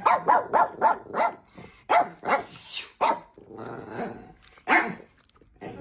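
Puppy growling and giving short snarling barks: a quick run of them in the first second or so, then a few more spaced out. He is guarding his food, growling at anyone who comes near it.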